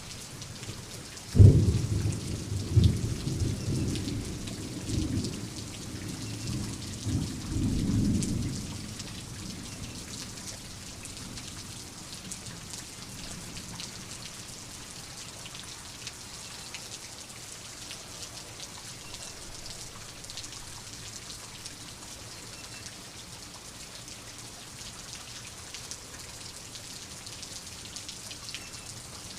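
Steady rain falling, with a sudden clap of thunder about a second and a half in that rolls on in rumbles for several seconds before dying away, leaving the rain alone.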